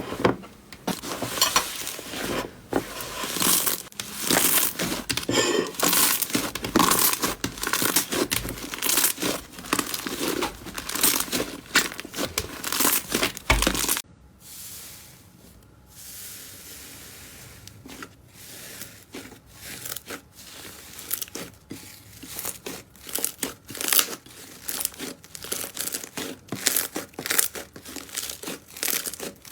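Slime being squished and worked, with a dense run of crackling and popping. About halfway through it cuts abruptly to a quieter take with sparser, separate pops.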